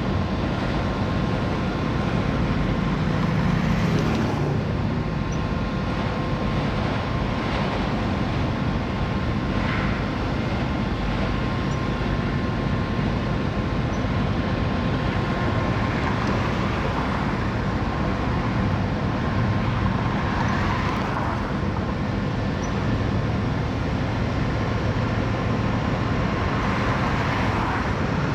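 Mixed freight train rolling past, a steady rumble of the cars on the rails with a faint steady whine under it and soft swells every few seconds.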